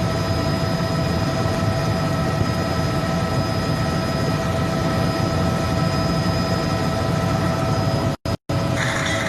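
Helicopter in flight: steady engine and rotor noise with a low rumble and a steady high whine, broken by a short gap near the end.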